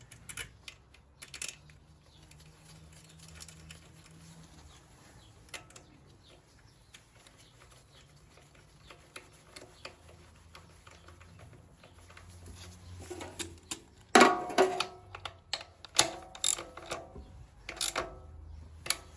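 Irregular metallic clicks and clinks of hand tools, nuts and bolts being handled and fitted on an engine, with a louder burst of knocks about fourteen seconds in and a few more near the end.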